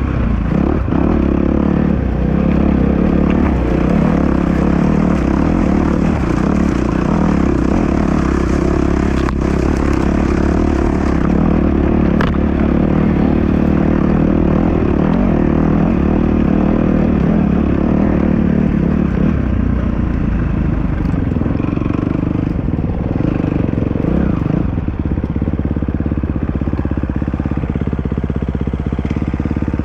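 Dirt bike engine running steadily, its pitch holding fairly even, easing off a little in the last third.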